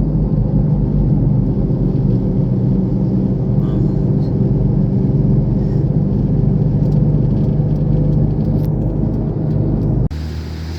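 Steady low drone of a motor vehicle's engine and road noise, as from a car moving at speed; it breaks off abruptly near the end.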